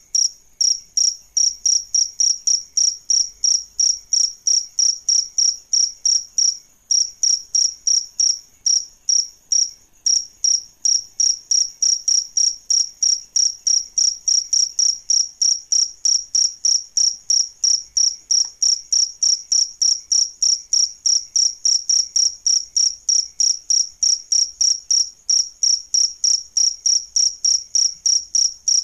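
A cricket chirping loudly and steadily: short high-pitched chirps, about three a second, with a couple of brief breaks near the start.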